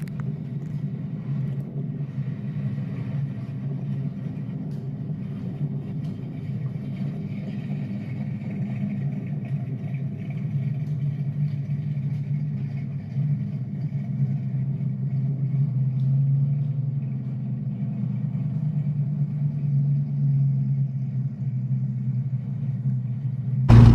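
A car engine idling steadily, a low rumble that swells slightly now and then.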